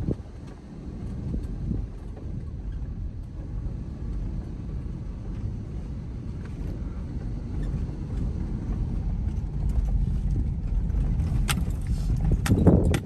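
A vehicle driving, heard as a steady low rumble that grows a little louder, with a few sharp clicks and a louder knock near the end.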